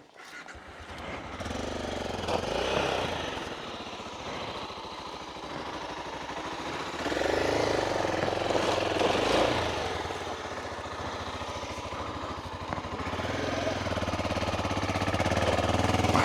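Adventure motorcycle engine running under load on a steep off-road section. The revs build over the first couple of seconds, are loudest in the middle and swell again near the end.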